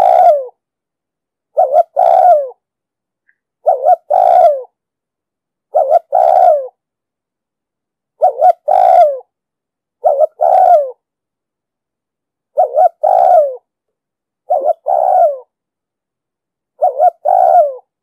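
Spotted dove cooing: a short note, then a longer note that falls away. The call repeats about every two seconds, nine times over.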